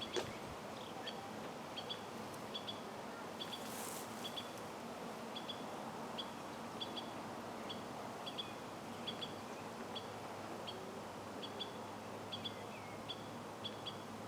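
A small bird repeating short, high chirps, often in pairs, about once a second, over faint outdoor background hiss, with a brief rustle about four seconds in.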